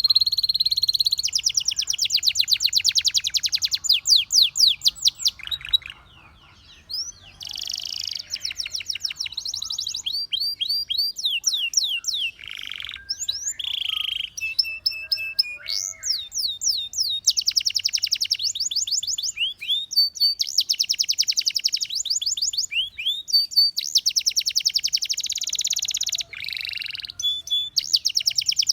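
Canary singing: long fast trills of rapidly repeated notes mixed with sweeping whistled notes, with a brief pause about six seconds in.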